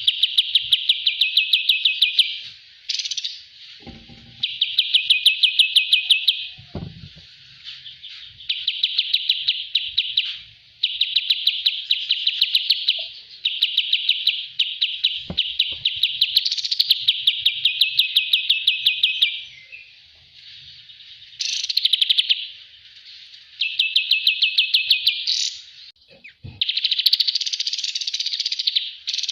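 Kapas tembak songbird singing bout after bout of a rapid, high trill of fast repeated notes, each bout lasting about two seconds with short pauses between. A few faint low knocks are heard, near the start and around the middle.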